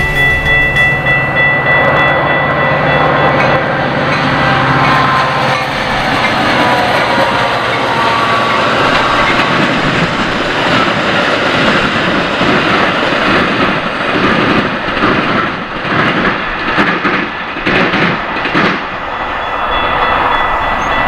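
Metra commuter train passing a grade crossing, with the crossing warning bell ringing. A steady low drone runs through the first half, then the wheels clatter over the rails in a quick run of knocks late on.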